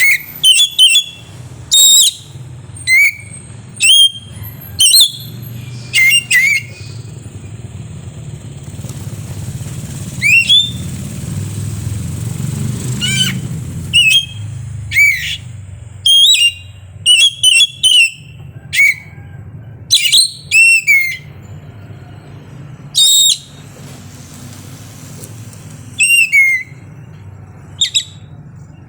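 Oriental magpie-robin (kacer) singing in short, loud whistled notes and chirps, sharp rising and falling sweeps given in irregular clusters with pauses between. A low engine rumble of a passing vehicle swells and fades in the middle.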